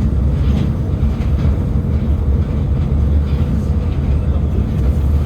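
Moscow monorail train running along its elevated beam between stations, heard from inside the car: a steady, loud low rumble with a faint hum above it.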